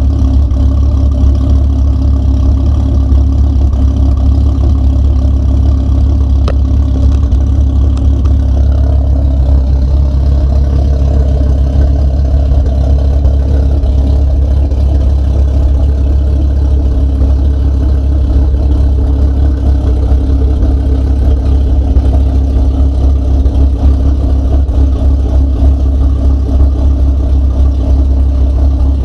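Engine idling steadily on its first run, a deep, even running sound with no revving.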